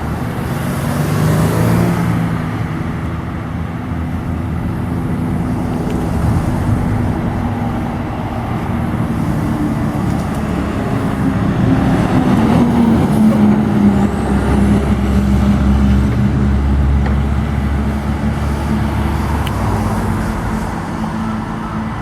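Heavy vehicle engine running, its note dropping a little about twelve seconds in, followed by a deeper rumble for several seconds.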